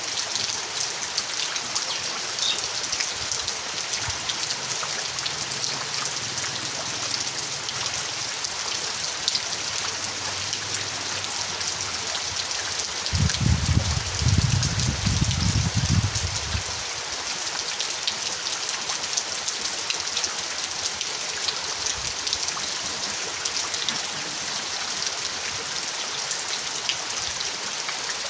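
Rain falling steadily, a continuous hiss full of small drop impacts. About halfway through, a low rumble swells for roughly three seconds and fades away under the rain.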